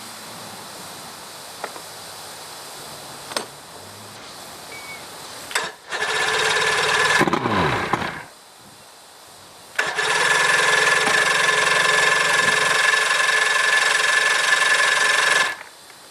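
Johnson 140 two-stroke outboard motor on its cold start: a loud burst of about two seconds that dies away with a falling pitch, then after a short pause a steady loud run of about five seconds that cuts off abruptly.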